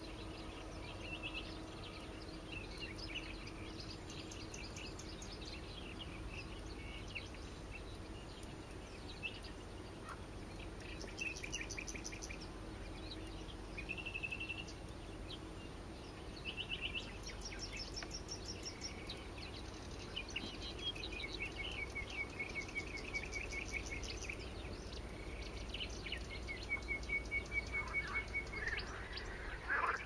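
Several small birds chirping and trilling: short high calls and rapid trilled runs, with a faint steady low hum fading out in the first several seconds.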